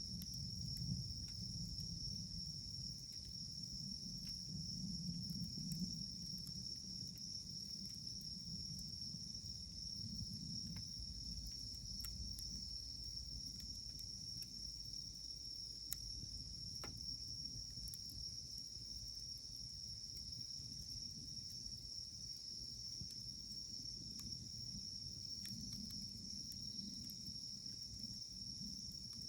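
Campfire burning with a low rumble and a few sparse, faint wood crackles, under a steady, high-pitched continuous trill of insects.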